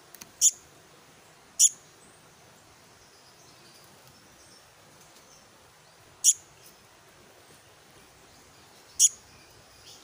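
Black-naped monarch chick giving four short, sharp, high-pitched calls at uneven gaps: two close together in the first two seconds, then two more spaced out later.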